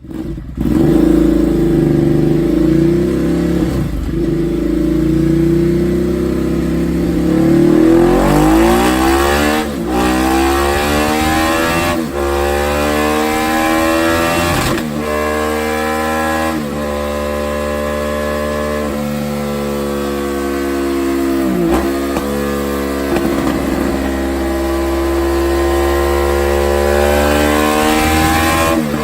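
Ducati Multistrada 1200's Testastretta V-twin, breathing through an SC-Project exhaust with its dB killer removed, running loud on a dyno. It holds a steady pitch at first, then revs up in several rising sweeps that each drop off sharply, and runs on with brief dips.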